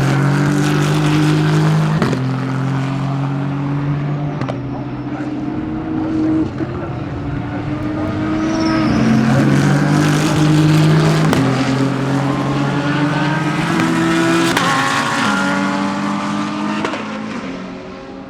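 GT3 race cars accelerating past on the circuit, their engines climbing in pitch and dropping at each upshift every couple of seconds, with one car getting louder then fading as it goes by.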